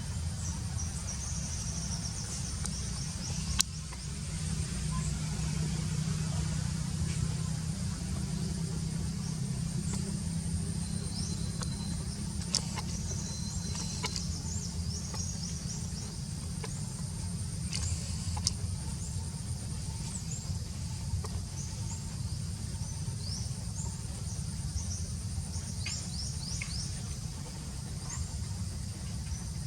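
Outdoor ambience: a steady low rumble under a steady high thin whine, with scattered short high chirps and a few sharp clicks.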